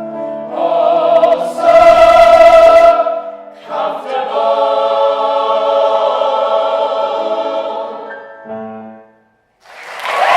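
A choir singing held chords, changing chord a few times before the final chord fades out about eight seconds in. After a brief silence, applause breaks out just before the end.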